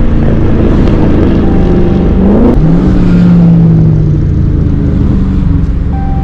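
V8 muscle-car engine running loud and close, revving up in pitch a little over two seconds in, holding the higher revs for about a second and a half, then settling back.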